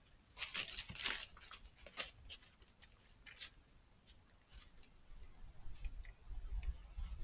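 Rapid, crisp crackling and clicking close to a trail camera's microphone for about two seconds, then a few scattered clicks. Wind rumbles on the microphone in the second half.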